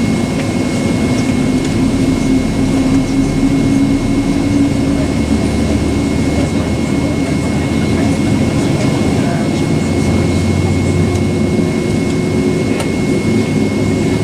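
Jet engines of a Boeing 767-400ER, General Electric CF6-80C2 turbofans, heard inside the passenger cabin as a steady loud rush. A low hum rises slightly in pitch over the first few seconds and then holds, with a thin steady high whine above it.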